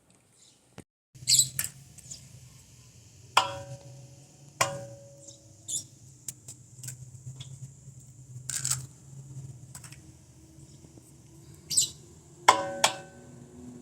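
Kitchen clatter of cookware being handled: scattered knocks and scrapes, three louder knocks ringing briefly with a clear tone, over a low steady hum that starts about a second in.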